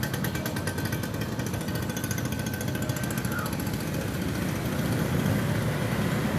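Steady outdoor engine rumble with a rapid, even pulsing that fades out about halfway through.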